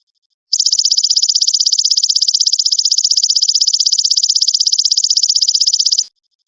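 Belalang emas (golden grasshopper) trilling: a loud, high, rapid buzzing pulse train that starts about half a second in, holds steady for about five and a half seconds, and cuts off abruptly shortly before the end.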